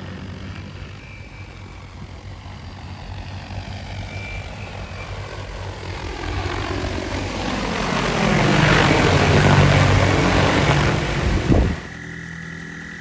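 Agricultural spray drone's rotors whirring, growing louder as it flies back in and comes down to land, then cutting off suddenly near the end as the motors stop.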